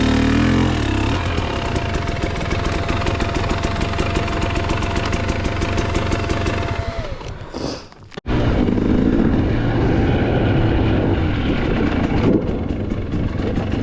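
Dirt bike engine running, its pitch wavering with throttle in the first second, then steady. Near the 8-second mark the sound fades and breaks off abruptly, then engine running resumes.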